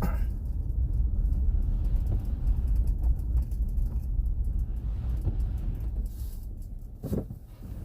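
Steady low rumble of a car driving, heard from inside the cabin: engine and road noise, easing off a little near the end.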